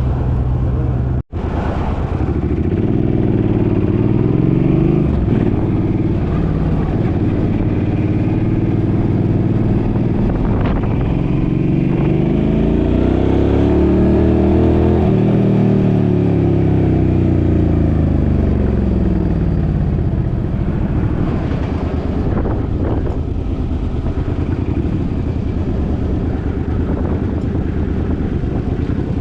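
Suzuki's engine running under way, its pitch climbing steadily through the middle as it speeds up, then falling away as it slows.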